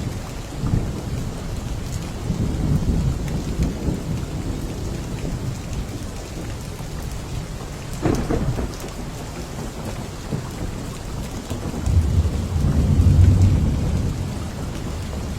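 Steady rain with thunder rumbling through it: a sharper clap about halfway through and the loudest, longest low rumble near the end.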